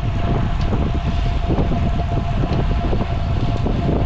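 Wind rushing over the microphone of a camera riding along on a moving road bike, a steady low rumble with a faint steady whine above it.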